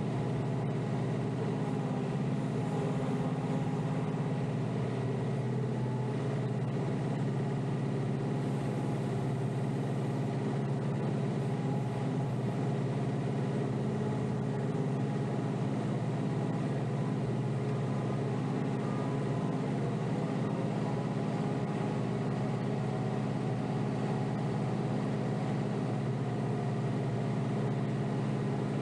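Kioti DK5320SE tractor's diesel engine running at a steady speed, heard from inside the tractor's cab.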